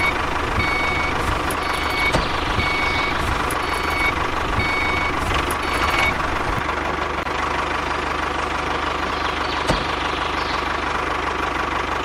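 Truck engine running steadily, with a reversing alarm beeping about once a second for the first six seconds.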